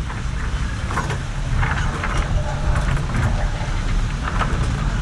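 A tour boat's engine running steadily, a constant low rumble.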